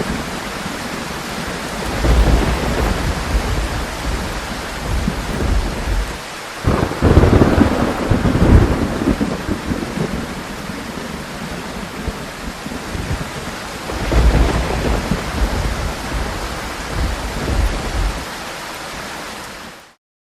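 Steady heavy rain with rolls of thunder, swelling about two, seven and fourteen seconds in, then fading out near the end.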